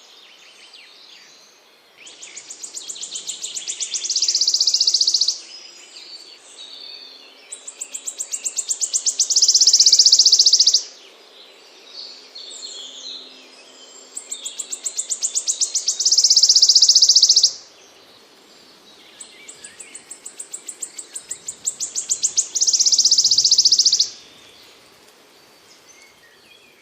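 A small songbird repeating its song four times, each phrase a run of quick high notes that speed up and grow louder into a dense buzzing trill, then break off; a new phrase starts every five to six seconds.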